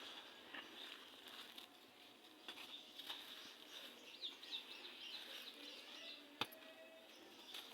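Gritty red sand crumbling, a faint fine crackle of grains with scattered small clicks and one sharp click about six and a half seconds in.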